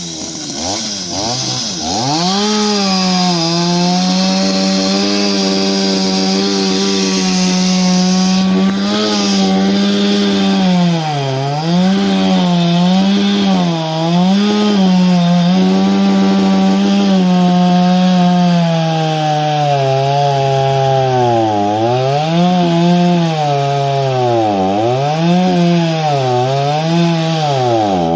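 Chainsaw engine running at high speed while cutting wood. Its pitch climbs about two seconds in, then dips and recovers again and again as the chain bites and frees, most often in the second half.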